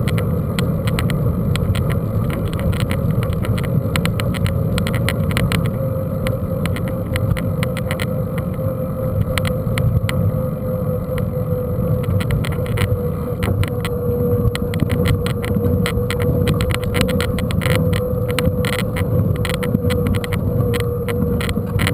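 Mountain bike riding over rough ground: a steady rumble with dense rattling clicks and a hum that slowly falls in pitch.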